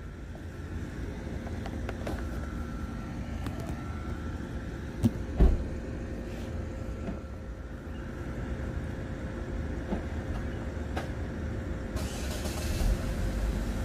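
A motor vehicle's engine running nearby, heard as a steady low rumble with a faint hum. There are two sharp knocks about five seconds in and a brief hiss near the end.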